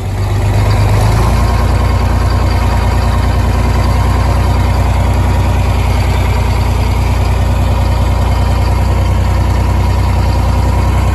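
A large engine starts up loud and close right at the beginning, then runs steadily with a deep, even hum.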